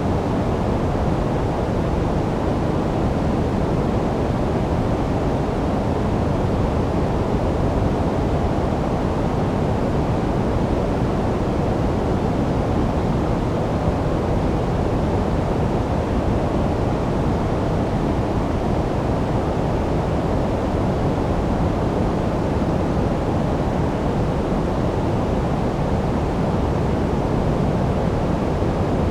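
Steady sleep-noise track: an even, unbroken rushing hiss that does not change, heavy in the low end and dull on top rather than bright.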